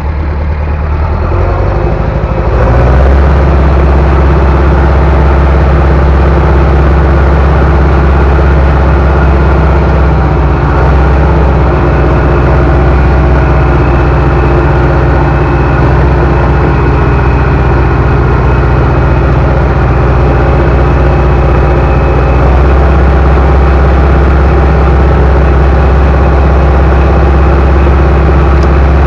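Bulldozer's diesel engine running steadily, close up, getting louder about two and a half seconds in as it picks up speed or load.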